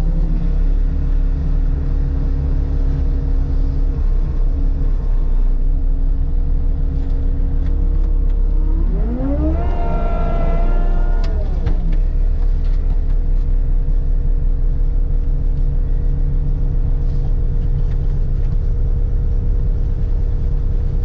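Heavy-equipment diesel engine running steadily under load. About nine seconds in, a whine rises sharply, holds for a couple of seconds, then falls away.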